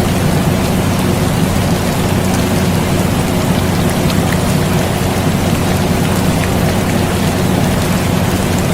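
Steady rain hiss with faint scattered drop ticks, mixed with the constant low hum of an air conditioner; the sound stays unchanged throughout.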